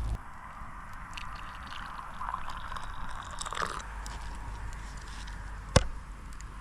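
Liquid sounds from peppermint tea being handled, with one sharp click near the end.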